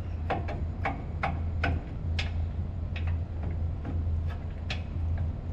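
Light, sharp metal taps from a brass rod being struck against a part, about three a second and unevenly spaced, with a steady low hum underneath.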